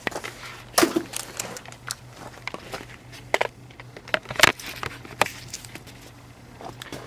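Hands working with tools and oil containers: a scattered series of sharp clicks and knocks, the loudest about a second in and again near the middle, over a faint steady low hum.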